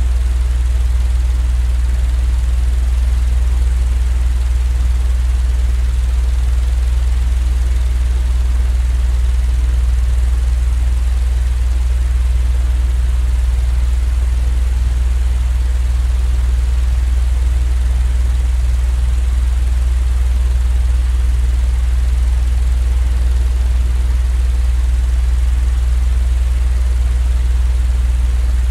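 Continuous sleep-aid noise track: a steady, unchanging low droning hum with a faint even hiss above it.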